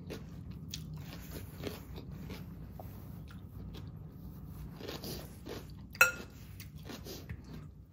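Crunchy chewing of a mouthful of raw salad (lettuce, cabbage, carrots) close to the microphone, with many small crackling bites. About six seconds in, a metal fork clinks sharply against the glass salad bowl.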